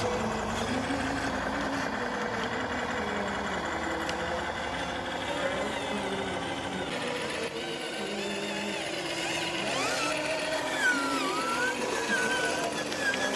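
Truck engine running steadily, mixed with voices; in the last few seconds a wavering melodic sound like singing or music comes in.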